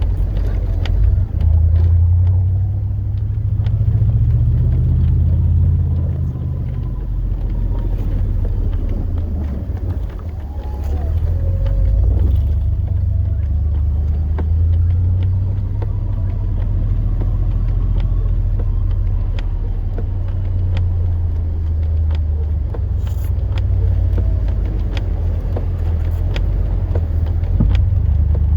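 Chevrolet Silverado plow truck driving, its engine giving a steady low rumble that rises and settles a little as it goes, with scattered light knocks and clicks over it.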